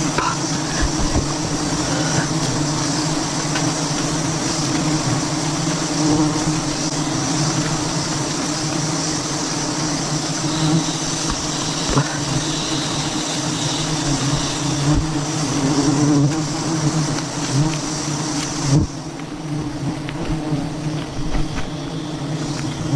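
A swarm of honeybees buzzing steadily and densely, with a few sharp knocks.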